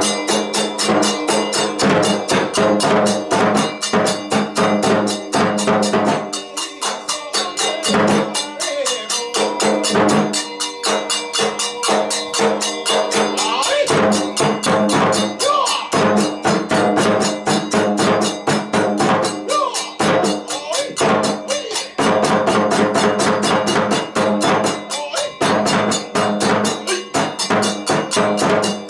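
Kagura festival music: drums and clashing hand cymbals playing a fast, steady beat under sustained tones.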